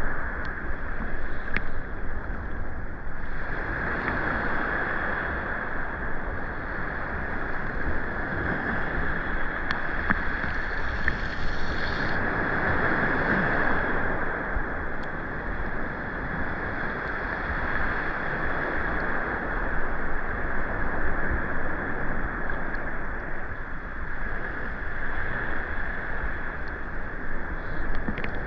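Rain falling on the sea with waves at the shore: a steady, even hiss and rush, with a few faint ticks.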